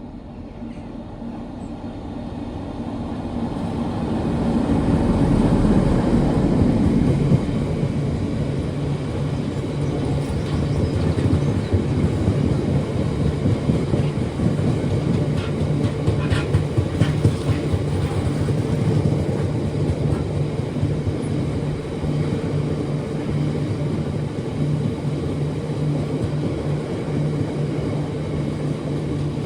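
A train approaching and passing, building to its loudest about six seconds in, then running by steadily with a low, even hum for the rest of the time.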